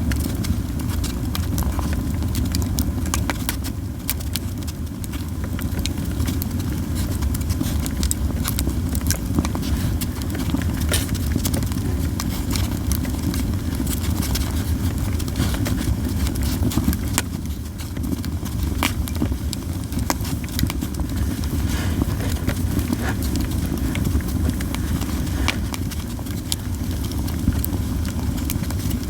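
Japanese yew logs burning in a campfire, crackling and popping with frequent sharp, irregular snaps over a steady low rumble.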